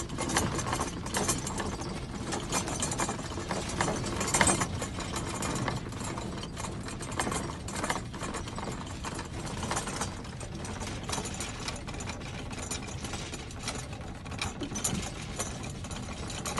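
Continuous mechanical rattling, dense with small clicks and knocks, over a low rumble, with a louder clatter about four seconds in.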